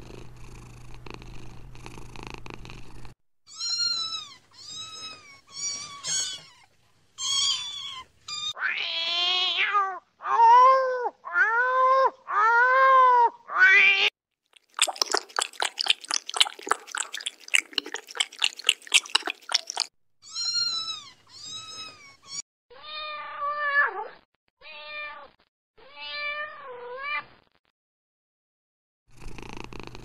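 Domestic cats: a steady purr, then a run of meows. First come short high mews, then several long, loud meows that rise and fall in pitch. A few seconds of fast rattling pulses follow, then more mews with a wavering pitch, and purring starts again near the end.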